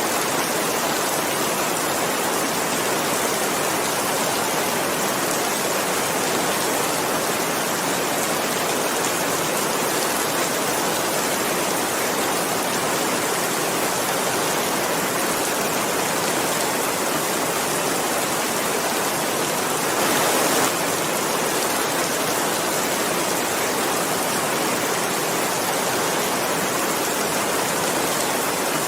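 Steady heavy rain falling, a continuous even hiss with no distinct drops standing out, and a brief slightly louder swell about two-thirds of the way through.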